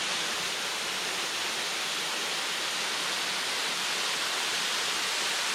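Waterfall, the steady hiss and rush of falling water heard close by.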